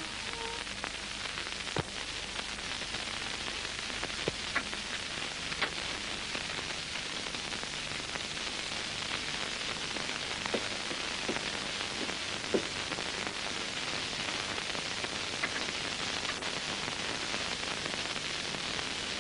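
Steady hiss with scattered faint clicks and crackles.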